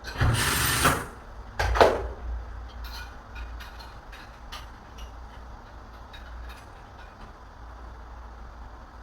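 Two short bursts of mechanical noise, the first under a second long and the second briefer, then scattered light clicks and taps during door repair work.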